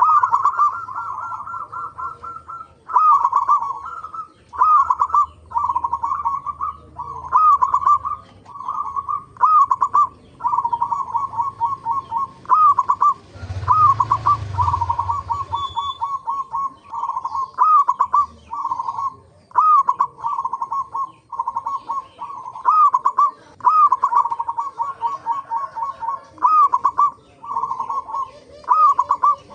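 Zebra dove (perkutut) singing steadily, one short, trilled cooing phrase after another about every second, with phrases at times overlapping. A brief rush of noise sounds about halfway through.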